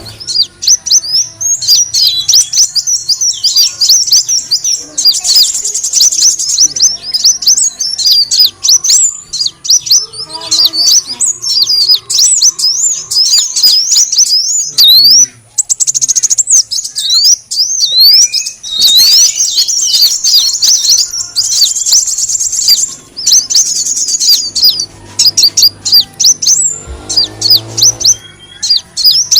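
Sunbird (kolibri wulung) calls played as a bird lure: a fast, dense stream of high, thin chirps and twitters that breaks off briefly about halfway through.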